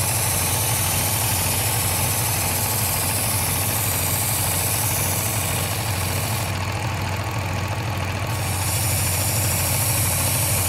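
Work Sharp Ken Onion Edition electric belt knife sharpener running steadily, with the hiss of a kitchen knife's blade being drawn across the abrasive belt. The hiss stops for about two seconds in the middle while the motor keeps running, then resumes.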